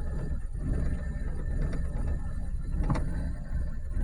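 2004 Suzuki Karimun's engine idling steadily, with a single sharp click about three seconds in.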